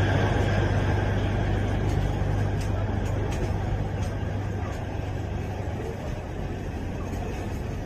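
Alishan Forest Railway train with a diesel locomotive running along a station platform: a steady low hum and rumble that slowly fades, with a few faint clicks two to four seconds in.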